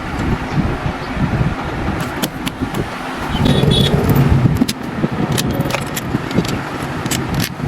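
Sharp metallic clinks of tools and parts over a steady low rumble of vehicle noise.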